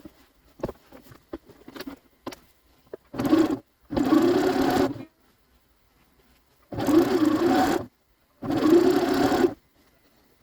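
Sewing machine stitching in four short runs of about a second each, with a few small clicks and handling noises before the first.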